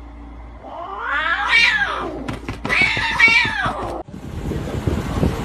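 A cat giving two long, drawn-out meows, each rising and then falling in pitch. It cuts off abruptly about four seconds in, followed by a steady noise.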